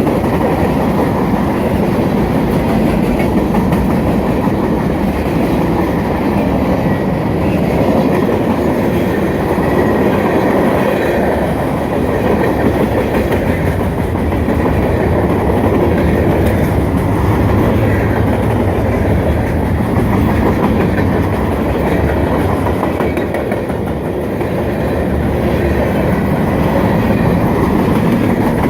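Freight cars of a 168-car manifest train rolling past at speed, a steady rumble of wheels on rail.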